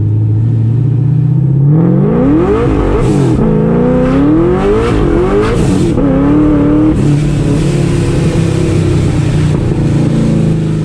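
Supercharged, big-cam LS3 V8 of a 2008 Corvette Z51 accelerating hard through the gears: after a steady drone, from about two seconds in the engine note climbs and drops with each upshift, then settles to a steady lower drone at about seven seconds.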